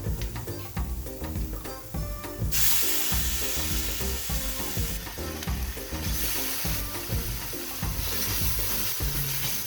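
Food sizzling in a hot pan, a loud hiss that starts suddenly about two and a half seconds in, over background music.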